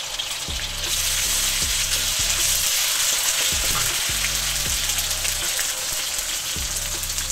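Ginger-garlic paste and curry leaves sizzling in hot cooking oil in a pan while being stirred with a wooden spatula; the sizzle grows louder about a second in.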